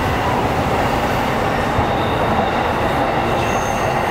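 Keihin-Tohoku Line E233-series electric commuter train running along the track, a steady rumble of wheels on rail heard from inside the passenger car. A faint high-pitched whine comes in during the second half.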